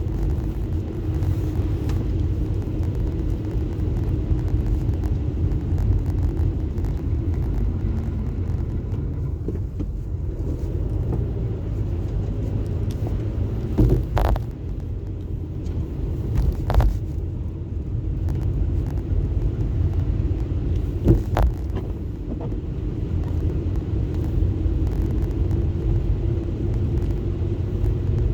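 Steady low road and engine rumble inside a car driving slowly on snow-covered streets, broken by three short sharp knocks in the middle stretch.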